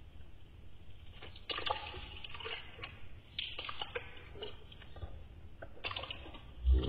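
Wet, irregular mouth sounds of chewing a juicy orange segment: quiet smacks and small clicks coming in loose clusters.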